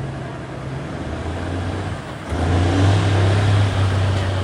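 Stock semi truck's diesel engine running with a steady note, then about two seconds in the throttle opens and it gets suddenly louder and holds there as the pull gets under way.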